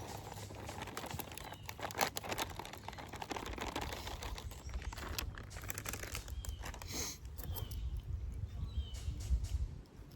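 Scattered light clicks and crinkling of things being handled, over a low rumble, with a few faint short bird chirps in the second half.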